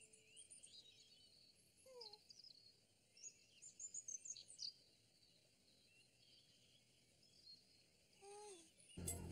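Faint birdsong: scattered high chirps and short trills, with a lower descending note about two seconds in and again near the end.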